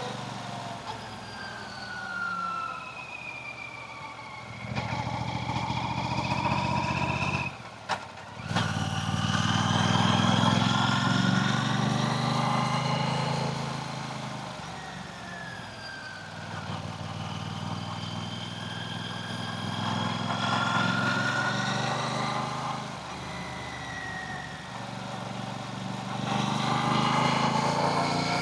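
Motorcycle engine running on the move, its low drone swelling and easing off in long stretches with the throttle, with other traffic passing and a brief break about eight seconds in.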